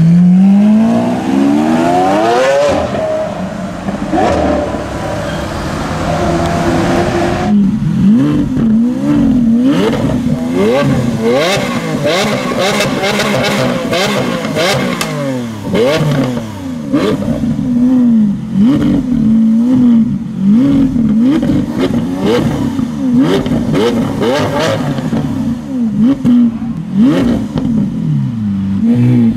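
Lamborghini Aventador SV's naturally aspirated V12 accelerating away, its pitch climbing over the first few seconds. After a cut about a third of the way in, a stationary Aventador SV is revved repeatedly in quick rising-and-falling blips, with exhaust crackles and pops between them.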